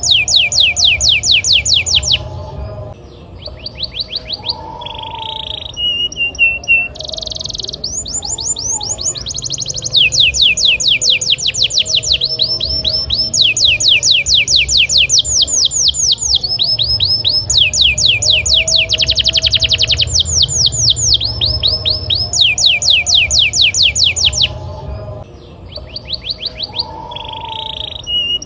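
Male domestic canary singing full song: rapid rolls of repeated downward-sweeping high notes, about ten a second, in phrases of one to three seconds that shift pitch from phrase to phrase, with a few short lower notes between.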